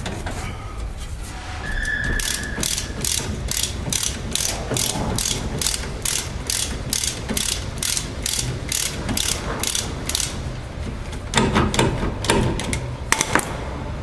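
Ratchet wrench clicking steadily, about three clicks a second, as a 17 mm brake caliper bolt is backed out. Near the end there is a burst of quicker, louder clacks.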